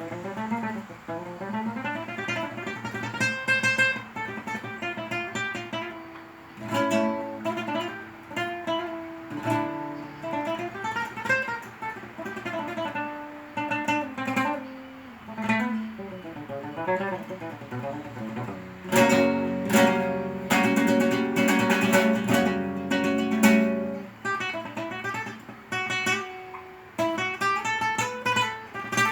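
Flamenco guitar improvisation on a solo acoustic guitar, with picked melodic runs and chords. About two-thirds of the way in comes a few-second burst of loud, rapid strumming, then single-note lines return.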